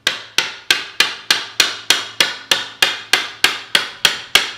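Hammer blows on wood in a fast, steady rhythm, about three a second.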